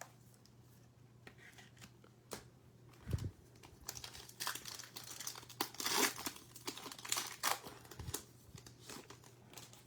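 Crinkling and tearing of a trading-card pack wrapper being ripped open and handled. There are a few light clicks at first, a soft thump about three seconds in, then denser crackling from about four to eight seconds in.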